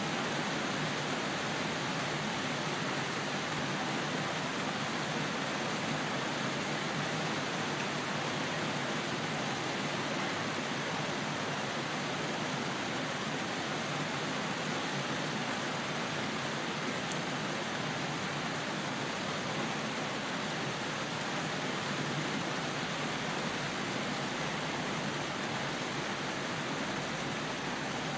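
Rain falling steadily, an even continuous hiss with no thunder.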